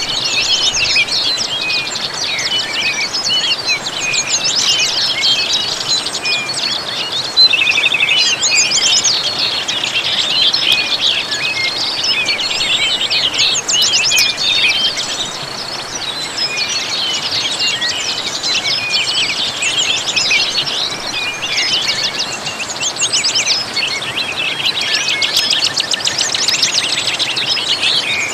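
A chorus of many small birds chirping and trilling without pause, their calls overlapping, over a fainter steady rush like falling water.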